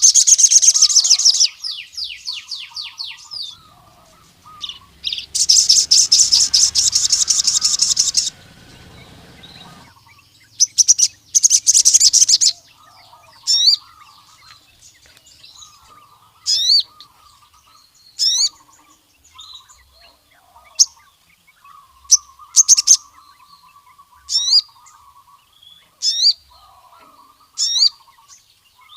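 Male crimson sunbird (sogon) singing loudly: fast high trills and a long rattling trill in the first half, then sharp single chirps about every two seconds, over a softer, lower twittering.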